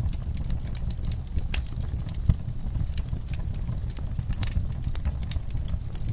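Wood fire burning in a fireplace: a steady low rumble of the flames with scattered crackles and snaps, and one louder pop a little over two seconds in.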